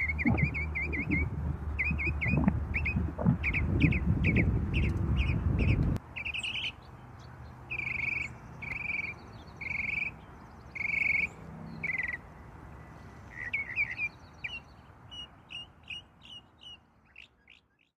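Birds singing: quick short chirps over a low rumble that cuts off suddenly about six seconds in, then one bird repeating a short call about once a second, with fainter chirps fading out near the end.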